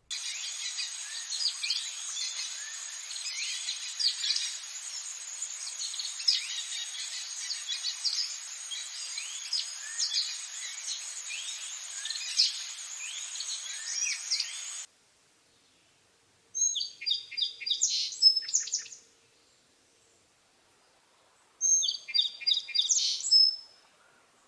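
Wild birds chirping: a dense chorus of many overlapping calls over a steady hiss that cuts off abruptly about 15 seconds in, followed after a pause by two short bursts of rapid, high song.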